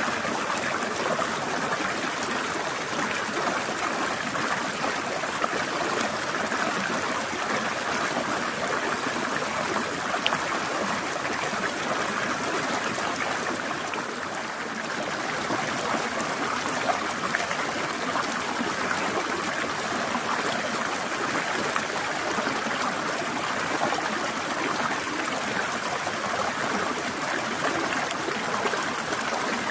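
A forest stream flowing: a steady, even rush of trickling water, briefly a little softer about halfway through.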